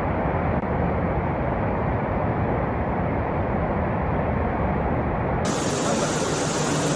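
Floodwater rushing, a steady dense noise; about five and a half seconds in it cuts to a brighter, hissier rush of water.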